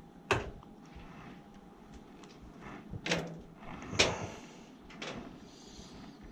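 Four sharp clacks and knocks of hard objects being handled, spaced irregularly, the loudest about four seconds in.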